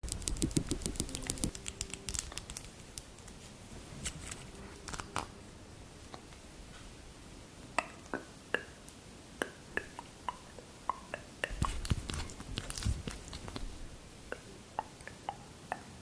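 Skincare products handled close to the microphone: a quick run of clicks in the first two seconds, then separate taps and clicks, many with a brief ringing note.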